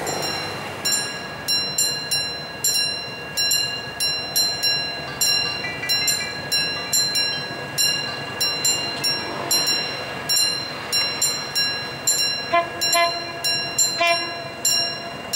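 Level-crossing warning bell ringing steadily, about two strikes a second, as a train approaches. Near the end a train horn sounds two short blasts about a second and a half apart.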